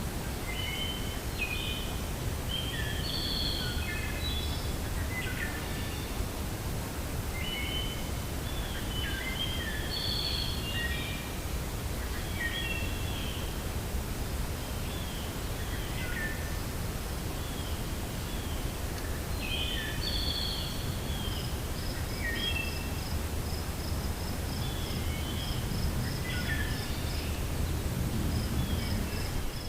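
Several birds chirping and calling over a steady low rumble of wind. From about two-thirds of the way in, a quick, even run of short high notes joins them.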